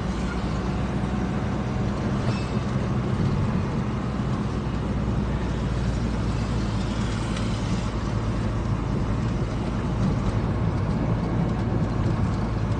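Steady engine and road noise heard from inside a moving car, a constant low hum.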